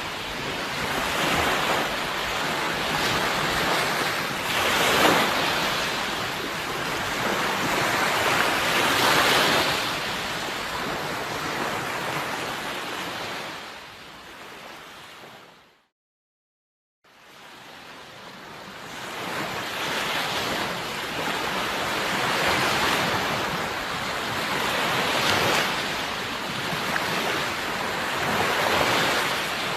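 Ocean surf, waves washing in and swelling every few seconds. About halfway through it fades out to a second or so of silence, then fades back in.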